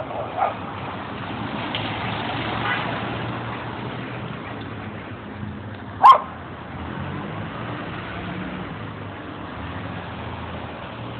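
Steady street traffic, with a single short, sharp dog bark about six seconds in.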